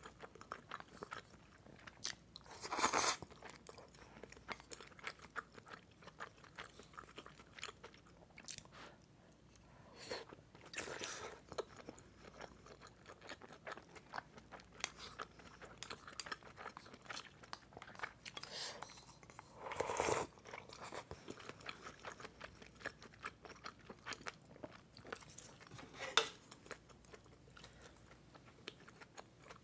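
A person chewing and crunching food close to a microphone, most likely baked mussels topped with mayonnaise and fish roe: many small crunches and wet mouth clicks, with a few louder moments spread through.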